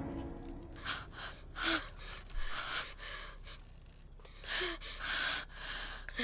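A person gasping and breathing hard in a string of short, shaky breaths, some with a faint catch of voice.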